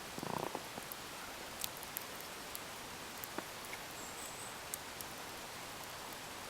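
Wood fire crackling in a wheelbarrow used as a fire pit: a steady hiss with scattered sharp pops, and a quick run of crackles just after the start.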